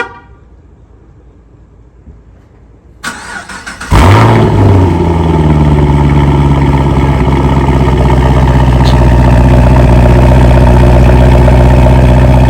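2015 Chevy SS's 6.2-litre V8 cold start: the starter cranks for about a second, the engine catches about four seconds in with a brief rev flare, then settles into a steady cold idle.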